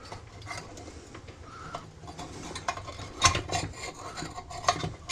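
Pliers and metal parts of a microwave magnetron clinking and scraping while it is taken apart, in irregular small clicks with a denser cluster about three seconds in and again near the end.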